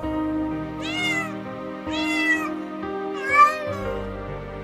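Domestic cat meowing three times, about a second apart, each meow rising then falling in pitch, the last one the loudest, over soft background music.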